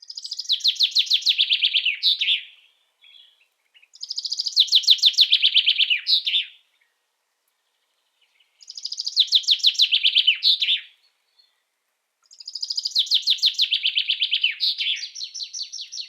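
A songbird singing four separate songs, each a fast trill of about two seconds that falls in pitch and ends in a brief flourish, with silence between the songs.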